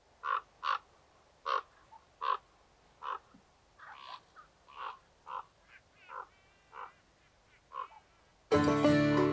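Birds calling: about a dozen short, separate calls, some coming in quick pairs. Near the end, acoustic music with banjo starts suddenly.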